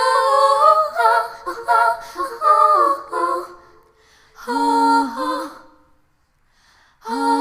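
A woman singing unaccompanied, wordless 'la' syllables in a slow lullaby-like melody: a held note, a run of short notes, a pause, another phrase, a second of silence, then a new phrase near the end.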